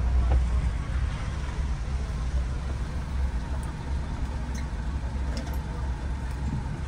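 Car engine idling, a steady low rumble heard from inside the cabin with the driver's window open.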